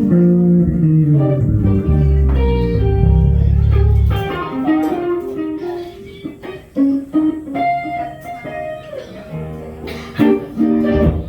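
Instrumental music led by a guitar playing plucked single notes in a slow blues style over a low bass line, thinning out to quieter notes midway before filling out again near the end.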